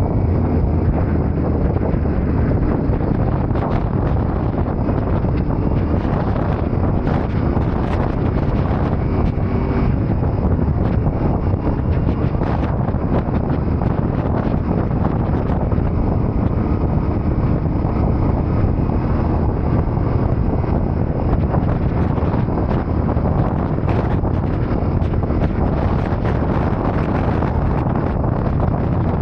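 Steady wind rush buffeting the microphone on a moving Yamaha Ténéré 700 motorcycle, with the bike's engine running beneath it at a constant pace.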